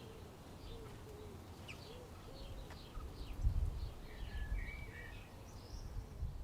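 Birds chirping and calling in short, repeated notes over a low rumble, which swells briefly about three and a half seconds in.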